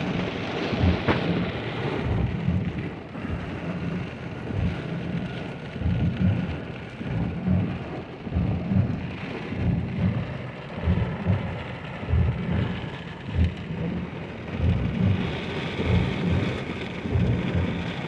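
Rain falling steadily, a continuous hiss with an uneven low rumble under it throughout.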